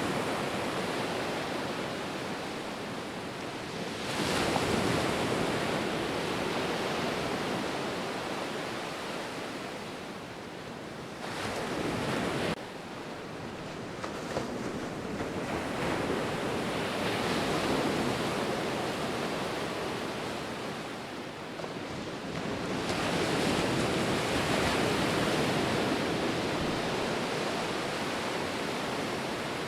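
Ocean waves breaking and washing on the shore, surging and falling back about every six seconds. One surge cuts off suddenly about twelve seconds in.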